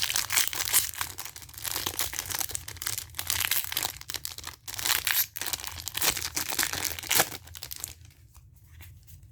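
Foil Pokémon booster pack wrapper crinkling and tearing in the hands as a pack is opened, in dense irregular rustles that die down near the end.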